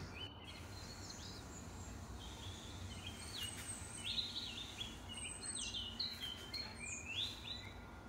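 Small birds chirping in a quick run of short, high notes that grows busier in the second half, over a faint low background rumble.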